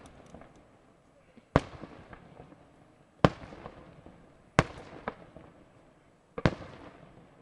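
Aerial fireworks shells bursting overhead: five loud single bangs about every second and a half, the last one doubled, each trailing off in a rolling echo.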